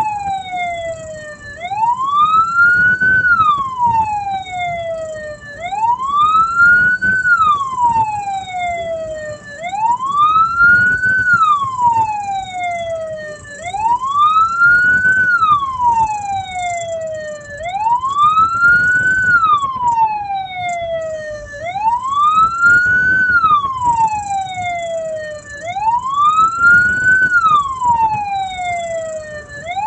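Hearse siren wailing, its pitch rising quickly and falling more slowly about once every four seconds, over a low road rumble.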